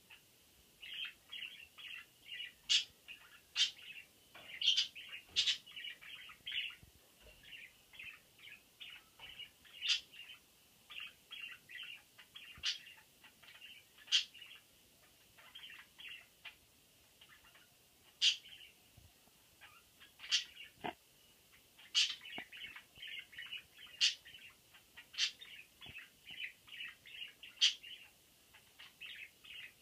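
Budgerigars chattering: a stream of short, scratchy chirps with frequent sharp high calls.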